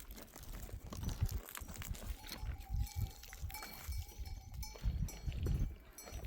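A flock of sheep and goats, with a steady bell-like tone held for about two seconds in the middle, over repeated low thumps.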